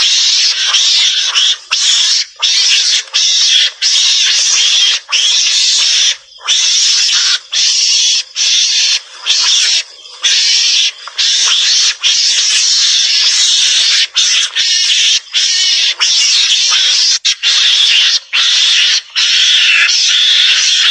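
Javan mongoose calls played as a hunting lure: a loud, continuous hissy chatter with no clear pitch, broken by brief, irregular pauses.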